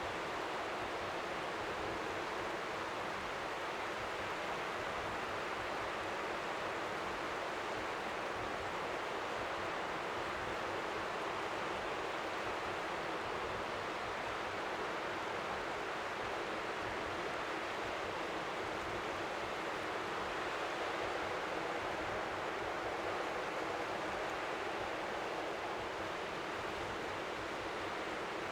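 Steady, even rush of strong seaside wind, with gentle waves lapping faintly on the shore beneath it.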